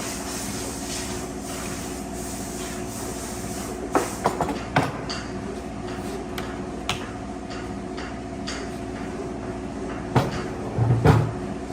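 A steady mechanical hum with a few sharp knocks and clatters, a cluster about four to five seconds in and another near the end.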